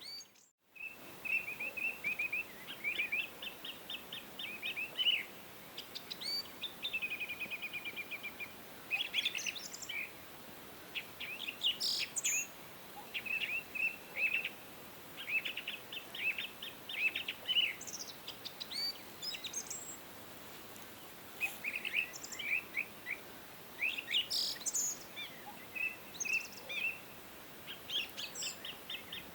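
Songbirds singing: runs of quick, repeated chirps and trills, over a faint steady hiss. The sound cuts out briefly about half a second in.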